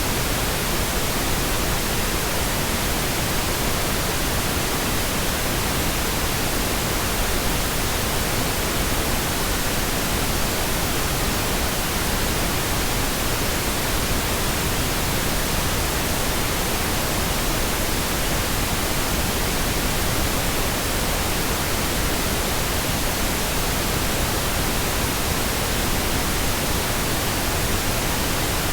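Steady, unbroken pink noise: an even hiss spread across the whole frequency range, with no change in level.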